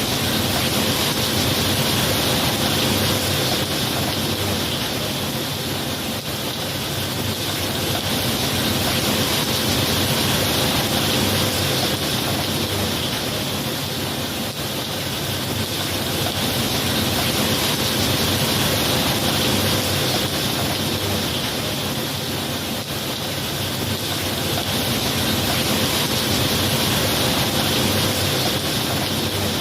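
Steady heavy rain, swelling and easing slowly every several seconds.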